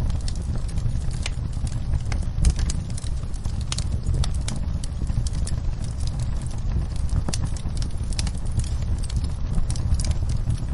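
Wood fire burning in a fireplace: irregular sharp crackles and pops over a steady low rumble of the flames, with one louder pop about two and a half seconds in.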